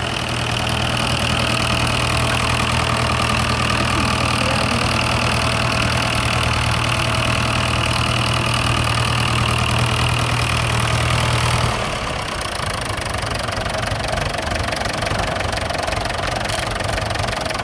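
Vintage farm tractor engine running steadily at low speed. About twelve seconds in its strong low note drops away, leaving a quieter engine sound running on.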